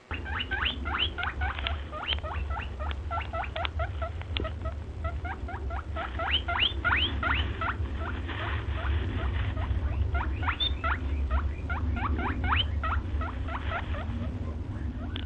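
A rodent squeaking: a long run of short, rising chirps, several a second, over a steady low rumble.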